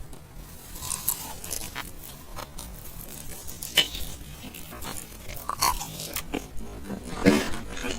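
Close-miked eating sounds: chewing, with scattered short wet smacks and clicks from the mouth.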